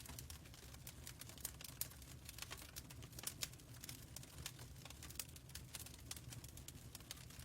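Fireplace crackling: irregular sharp pops and crackles over a low steady rumble.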